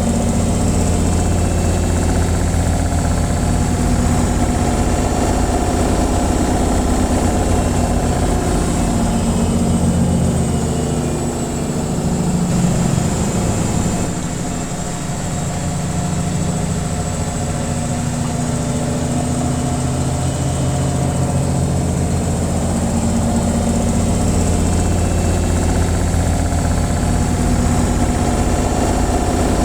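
Washing machine on its spin cycle: a steady motor hum with a low drum rumble, dipping briefly about halfway through and picking up again.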